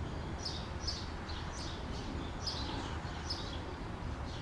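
A bird chirping: short, high, falling notes, often in pairs, repeated about every half second over steady low outdoor background noise.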